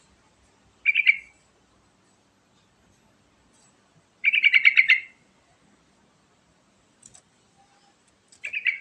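Yellow-vented bulbul (trucukan) singing three bubbly phrases of rapid warbled notes: a short one about a second in, a longer rattling run of about ten quick notes just after four seconds, and another short one near the end.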